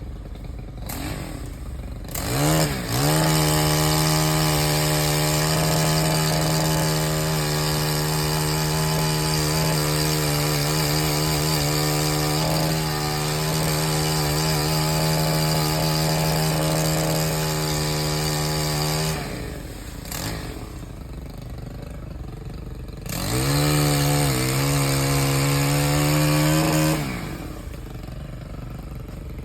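Pole saw's small gas engine held at full throttle for about sixteen seconds, dropping back to idle, revving up again for a few seconds, idling, and revving once more near the end.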